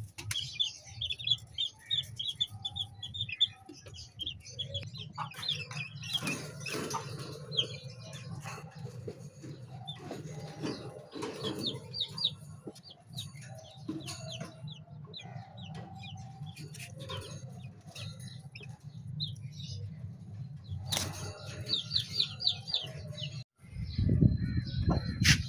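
Chickens, Ayam Cemani with their chicks, calling: runs of quick high peeping chirps, scattered clucks and wing flaps over a steady low hum.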